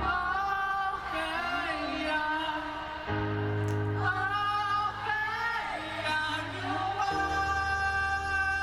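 Concert music: a high singing voice holds long notes and slides between pitches over sustained bass chords, which change about three seconds in and again near seven seconds.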